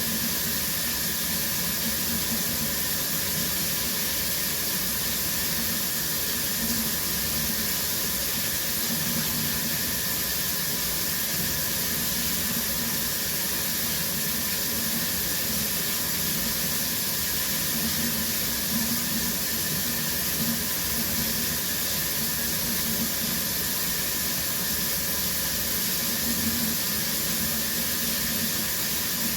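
Shower running steadily, water spraying from the shower head and splashing below in an even hiss.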